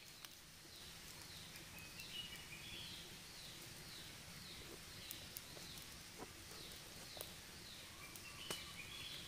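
Faint forest ambience: a bird's short, high, falling call repeated at an even pace about every two-thirds of a second, with a few sharp crackles from a small wood campfire.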